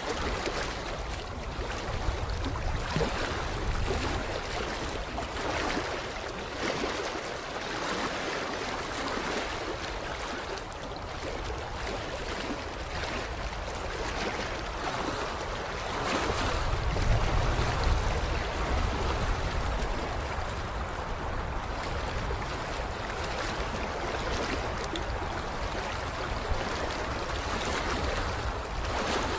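Water lapping steadily along a creek shoreline. A low rumble swells up twice, loudest near the middle.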